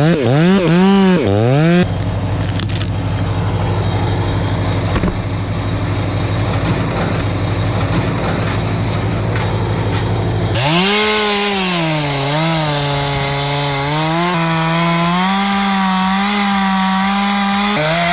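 Chainsaws running in back-to-back clips: a saw revving up and down for about two seconds, then a rough, steady cutting noise. About ten seconds in, another saw runs at high revs, its pitch dipping and recovering as it bogs into the wood.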